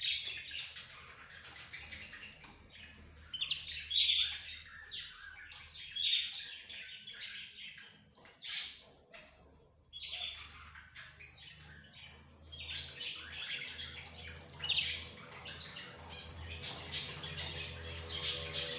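A mixed group of cage birds (budgerigars, lovebirds, zebra finches and a canary) chirping and squawking together, in bursts of quick high chirps every couple of seconds.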